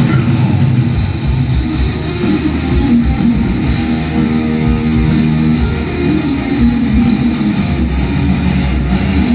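Heavy metal band playing live: distorted electric guitars strummed over bass and pounding drums, loud and steady, with no singing.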